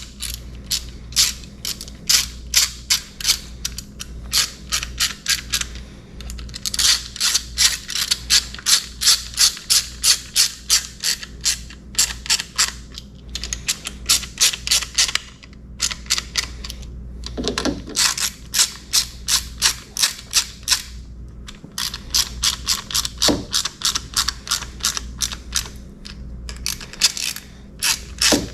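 Hand ratchet wrench clicking in long runs of about four clicks a second, broken by short pauses, as a fastener is run back down by hand rather than with an impact gun.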